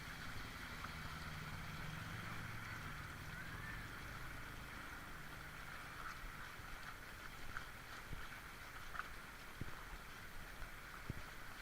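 Steady rush of overflowing floodwater. A low hum sits under it for the first few seconds, and a few sharp knocks come in the second half.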